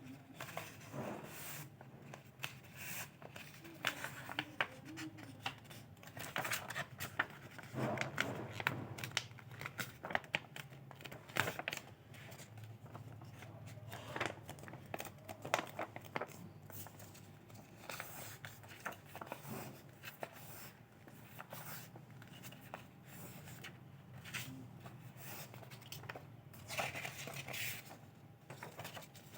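A sheet of paper being folded and creased by hand: irregular crinkling and short crisp swishes as folds are pressed flat.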